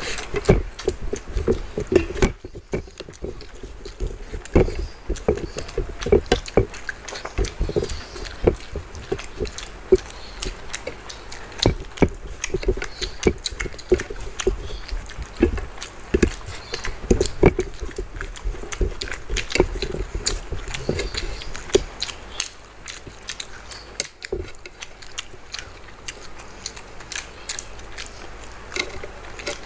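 Close-miked eating by hand: wet chewing, biting and lip-smacking from two people, a quick irregular run of smacks and clicks.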